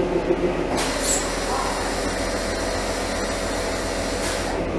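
A narrow-gauge diesel train standing at the platform. A steady hiss of air starts suddenly about a second in and cuts off near the end, over the engine's low, even pulsing.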